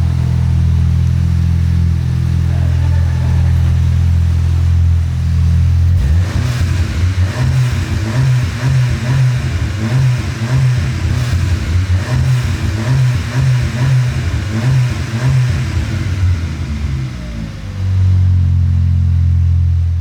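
BMW S1000RR superbike's inline-four engine running loud and steady, with a rhythmic pulsing through the middle stretch before it steadies again.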